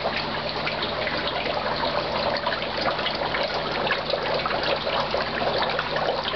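Dry ice bubbling hard in water, a dense steady fizzing and gurgling as the gas boils off to make the fog.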